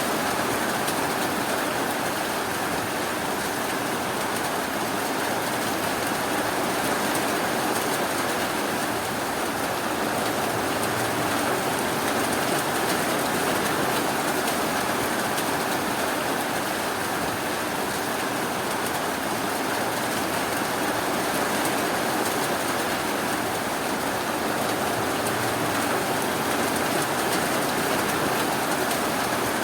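Steady rainfall, an even hiss of rain with no thunder or separate drops standing out.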